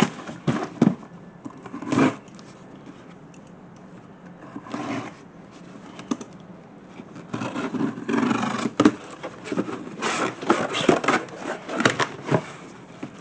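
Packaging around an air filter being handled and unwrapped: scattered knocks and scrapes, then a longer stretch of rustling, crackling plastic and cardboard from about seven seconds in.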